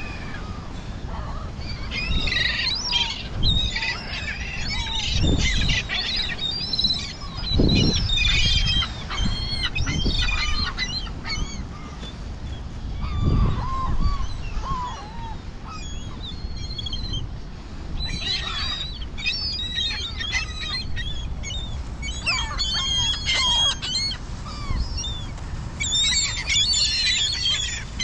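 A flock of gulls calling over one another in many short, high squawks that come in dense bursts, as they crowd in for thrown bread. A low wind rumble sits on the microphone underneath.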